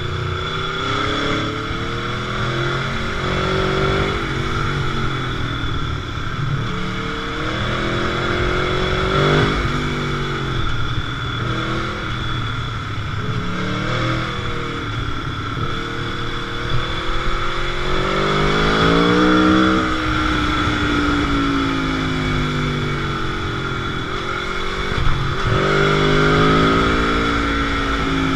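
Motorcycle engine on the move, its revs climbing and falling back again and again as the rider accelerates, shifts and rolls off, over a steady rushing noise.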